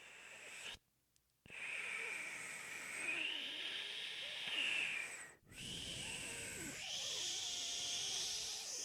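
A man breathing hard across a microphone in long breaths, with a short break about a second in and another brief pause about halfway through.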